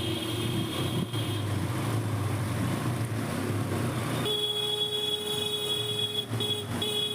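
A motor vehicle's engine running steadily. About four seconds in, a horn sounds one long blast, then two short ones.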